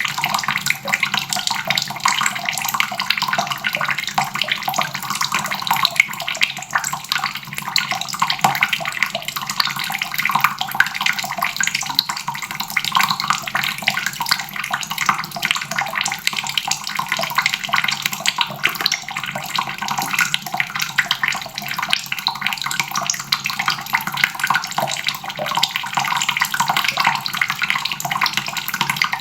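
Water faucet running steadily, its stream splashing into a basin below.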